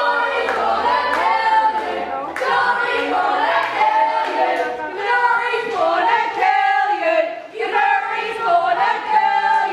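Wrestling crowd singing a chant together, many voices in unison, with a few sharp cracks over it.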